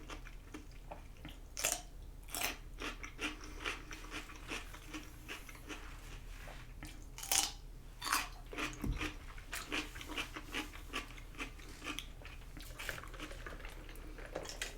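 A person chewing and biting food close to the microphone: irregular wet mouth smacks and clicks, with one louder smack about seven seconds in.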